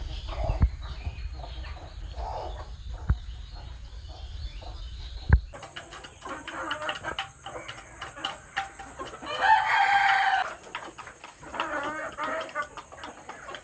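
Chickens clucking, with one loud rooster crow of about a second midway through. A low rumble and three sharp knocks sit under the first half.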